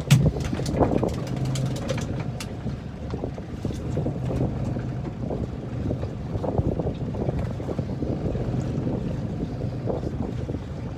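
Small fishing boat's engine running steadily, with wind buffeting the microphone. A sharp knock comes just after the start, and a few lighter clicks follow over the next couple of seconds.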